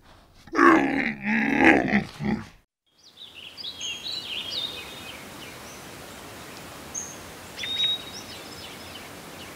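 Dromedary camel's deep grunting call lasting about two seconds. After a brief silence, small birds chirp and twitter a few times over a steady quiet hiss of outdoor air.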